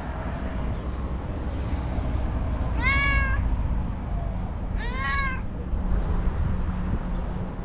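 Stray white cat meowing twice, about two seconds apart, each meow rising a little and then falling away, over a steady low rumble.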